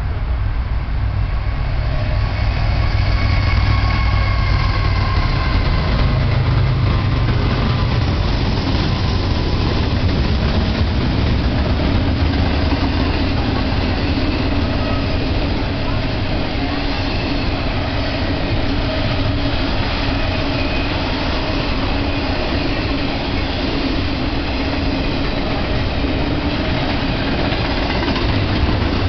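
BNSF freight train passing close by: the diesel locomotives' engines are loudest in the first few seconds. A long double-stack container train then rolls past with a steady rumble of wheels on rail.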